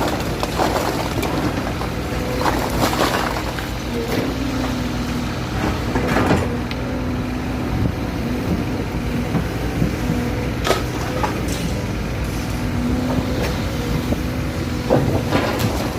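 A heavy diesel engine running steadily with a hum whose pitch comes and goes, and scattered knocks and clatter over it.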